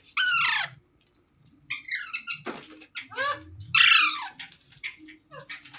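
Ringneck parakeet calling: a few loud, harsh squawks, each sliding down in pitch, with softer chattering calls between them.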